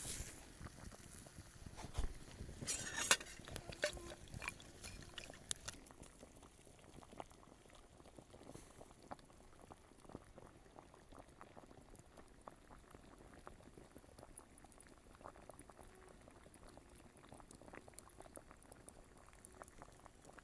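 Water bubbling and simmering in a pot, with a steady scatter of small ticks and pops. A few louder knocks and clattering sounds come in the first four seconds.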